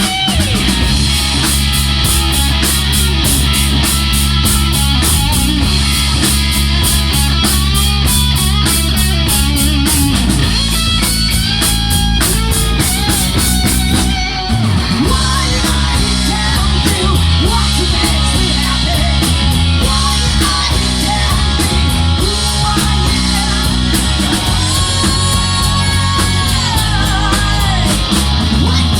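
Rock band playing live: electric guitars, bass and drums with a fast, steady beat. About halfway the drums drop out for a moment, then the band carries on with a new pattern.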